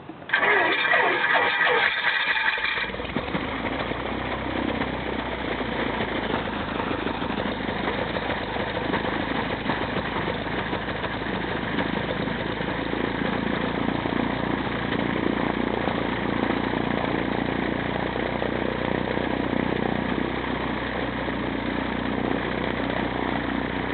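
Cessna 172's piston engine cranking on its starter for about two and a half seconds, then catching and settling into a steady idle.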